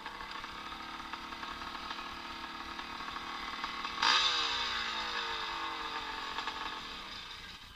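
Vintage motocross motorcycle engines running at race speed. About halfway through, one bike comes in loud and close, then falls in pitch and fades as it passes by.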